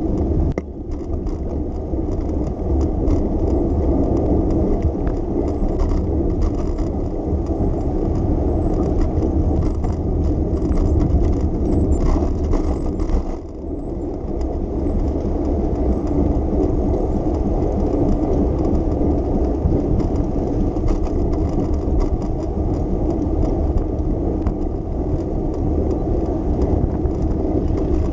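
Steady low rumble of a bicycle riding along city streets: tyre and road noise with car traffic around, dipping briefly in loudness twice.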